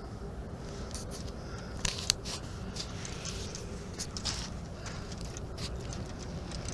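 Steady low outdoor rumble with scattered small clicks and scrapes, and two sharper clicks about two seconds in.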